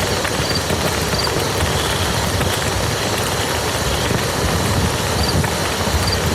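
Steady rain falling on a muddy field, an even hiss of drops with no let-up. A few faint high chirps repeat near the start and again near the end.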